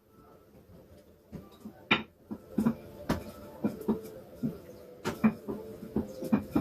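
Repeated sharp knocks of kitchen work at an uneven pace of about two to three a second, starting about a second and a half in, over a faint steady hum.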